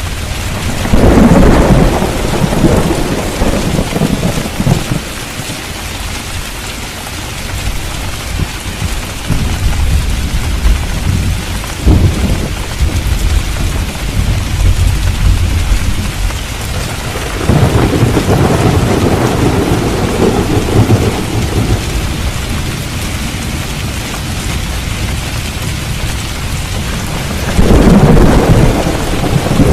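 Steady heavy rain with rolling thunder: a loud rumble about a second in, a sharp crack near the middle, another long rumble a little past halfway, and a loud one near the end.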